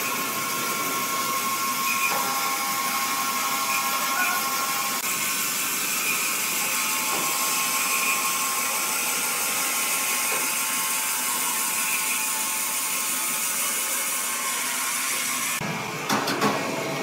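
A machine running steadily with a whirring, drill-like noise, changing abruptly to a different sound about a second before the end.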